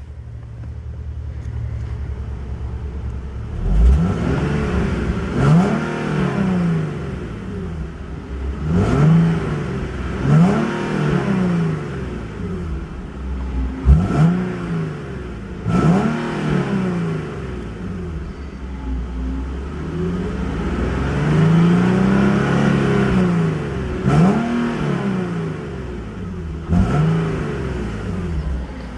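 Nissan 370Z's 3.7-litre V6 idling, then revved hard in short blips with the car standing still, the pitch jumping up and falling back about nine times, one rev held longer near the middle.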